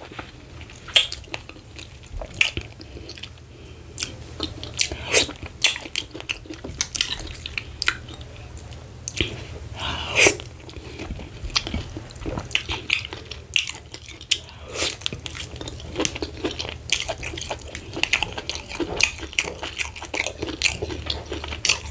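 Close-miked chewing and mouth smacking of a person eating oatmeal fufu with ogbono soup by hand: many short, irregular wet clicks and smacks.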